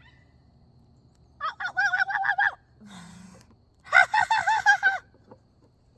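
A person imitating a woodpecker's laughing call: two runs of quick repeated hoots, each about a second long, with a short pause between them.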